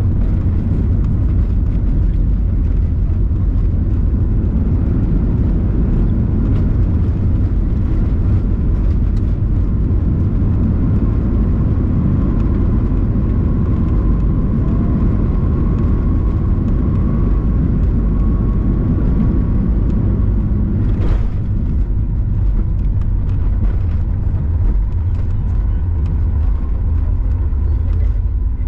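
Steady low rumble inside the cabin of a Boeing 737 MAX 8 airliner, the engines and airflow heard from a passenger seat during the landing phase. A faint steady whine sounds through the middle, and a single short knock comes about three quarters of the way through.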